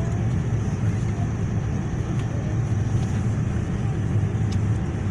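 Steady low rumble of cabin noise inside a Boeing 787 airliner: engine and airflow noise heard from a passenger seat.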